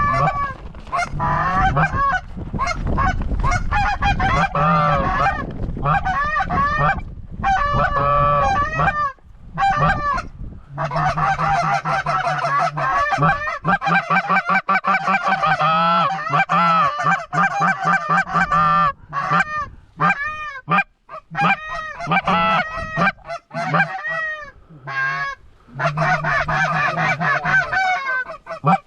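Canada geese honking and clucking in rapid, overlapping calls, a steady stream broken by short lulls.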